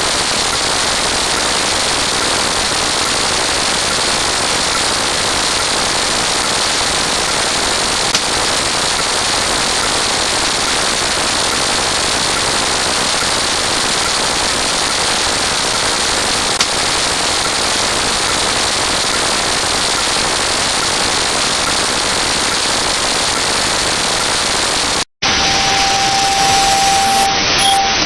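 A loud, dense wall of noise from many sound effects piled on top of one another, with a rapid gunfire-like crackle. Near the end it cuts out for an instant, then gives way to hiss with a steady beep.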